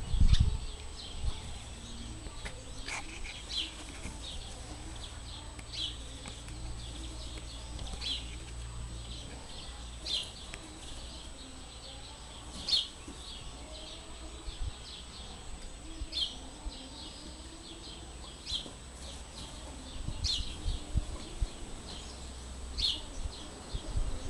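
A bird chirping a short high call over and over, about once every two seconds, over a low rumble. A few soft thumps come near the start and again near the end.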